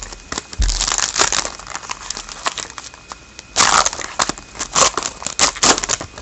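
A hockey trading card pack's wrapper crinkling and being torn open, in two spells of crackling, the second longer and louder.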